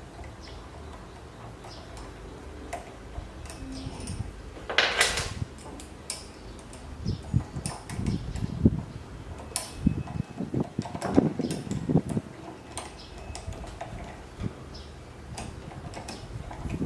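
Metal parts and tools being handled during assembly: scattered clicks and clinks, a short scrape about five seconds in, then a run of knocks over the following several seconds.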